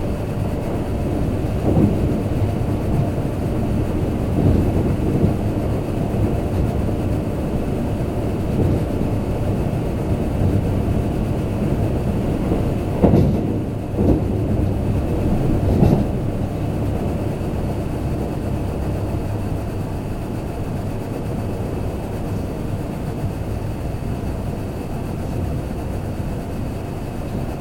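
Kintetsu limited express train running at speed, heard from inside the passenger car: a steady rumble of wheels on rail, with a few sharp knocks, a cluster of them about halfway through.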